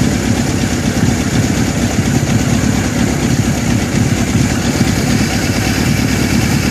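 1981 Suzuki GS750's air-cooled inline four-cylinder engine idling steadily with a fast, even exhaust pulse, freshly running again after a full carburettor rebuild.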